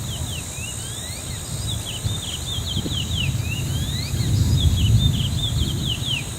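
Small birds chirping in quick, repeated short notes, some sliding down and some up, over a low rumble that grows louder about four seconds in.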